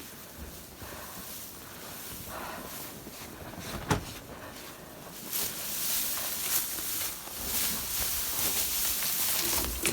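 Footsteps trudging through deep snow with rustling, a single sharp knock about four seconds in, and a hiss that grows louder from about five seconds on.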